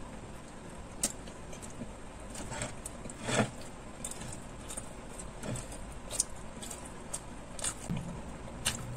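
Close-miked chewing and mouth sounds of a person eating a burger: scattered soft wet smacks and clicks, with one louder squelching moment about three and a half seconds in.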